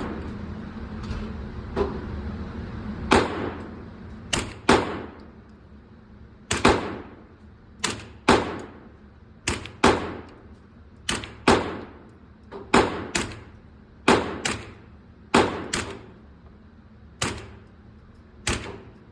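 Semi-automatic fire from a 9mm MP5-style carbine: about eighteen shots, mostly in quick pairs a fraction of a second apart, each echoing briefly.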